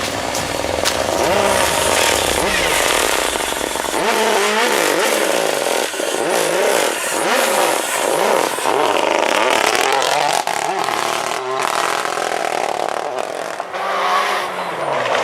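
Rally car engine revving hard, its pitch rising and falling again and again.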